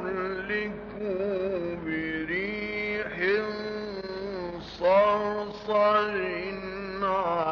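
A man reciting the Quran in the melodic mujawwad style. He draws out long, ornamented melismatic notes, and a louder phrase begins a little before five seconds in.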